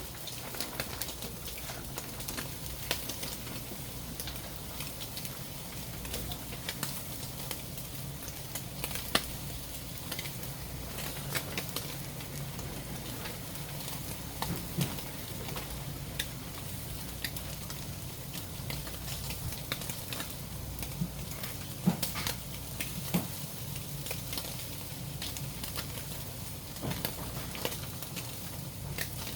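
Food sizzling on a grill, with a steady hiss and frequent sharp crackles and pops.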